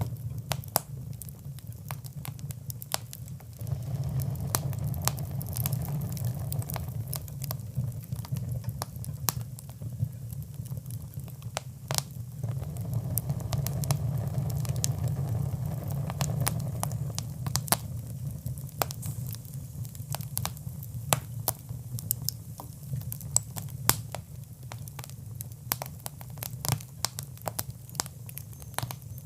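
Wood fire crackling in a fireplace: irregular sharp pops and snaps over a steady low rumble of flames that swells and eases.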